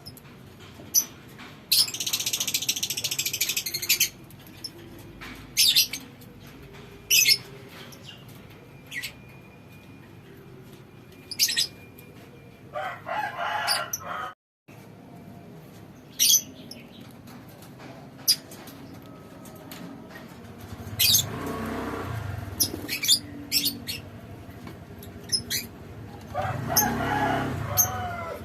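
Lovebirds giving many short, sharp high chirps, with a burst of wing flapping near the start. Two longer, lower calls come in the second half.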